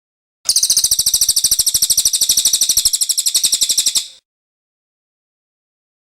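Cililin bird song: one long, fast, high-pitched trill of rapidly repeated notes, lasting about three and a half seconds and tailing off at the end.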